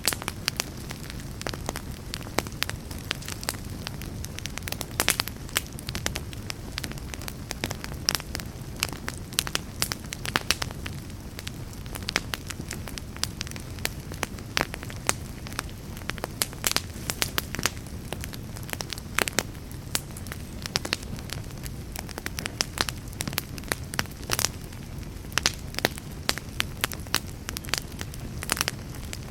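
Fire in a fireplace crackling: frequent irregular sharp pops and snaps over a steady low noise of the burning fire.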